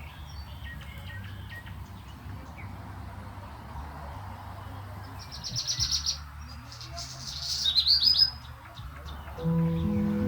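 Songbirds singing: faint chirps early on, then two louder, quick trilled phrases, one about halfway through and one a couple of seconds later, over a low steady background rumble. Music comes in just before the end.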